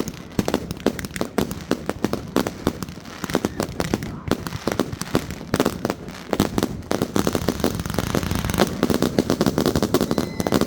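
Many fireworks going off at once: a dense, irregular run of bangs and pops that thickens into a near-continuous crackle over the last few seconds.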